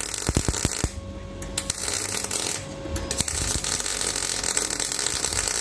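MIG welder arc crackling and sizzling in short runs of stitch welding on car body sheet metal, stopping briefly about a second in and again near the middle before starting up again.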